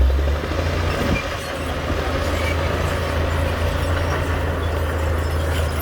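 Diesel engine of heavy earthmoving machinery running steadily under work with a low rumble, briefly louder at the start.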